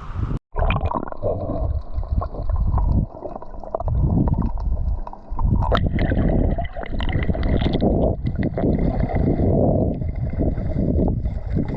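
Water sloshing and gurgling around a kayak, with wind noise on the microphone.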